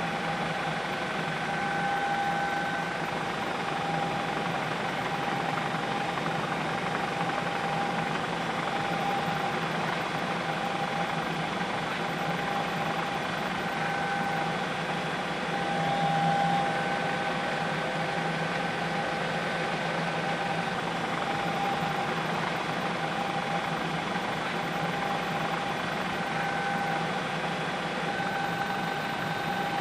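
Helicopter noise heard from on board: a steady engine and rotor drone with constant tones running through it, swelling slightly about halfway through.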